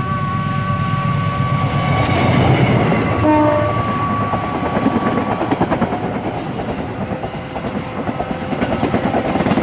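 Passing train sounding its horn in a long held blast, with a short lower toot about three seconds in. About four seconds in, the wheels start clattering over the rail joints as the train goes by, and the horn stops about two seconds later.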